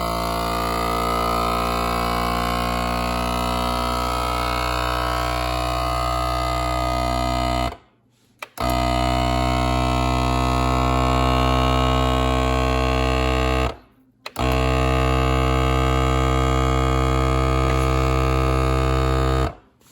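Vacuum sealer's pump running in accessory mode, drawing the air out of a canister holding marshmallows, with a steady humming drone. It cuts off and restarts twice, making three runs in all.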